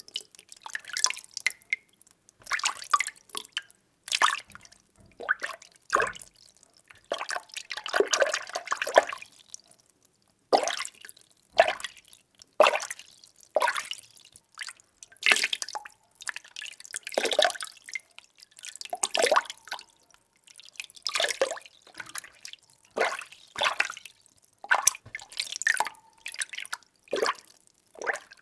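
Water being stirred in a container: repeated short splashing swirls, roughly one a second, with a longer continuous swirl about a third of the way through.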